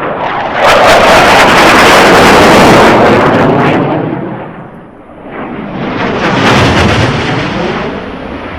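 Blue Angels F/A-18 Hornet jets flying past, two loud rising-and-falling roars with a crackle: the first and loudest about half a second in, lasting some three seconds, the second a couple of seconds later.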